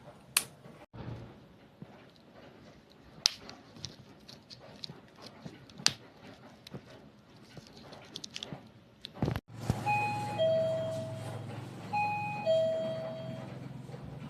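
Several sharp clicks and taps, then a two-note electronic ding-dong chime, a higher note followed by a longer lower one, sounding twice, about two seconds apart, over a low hum.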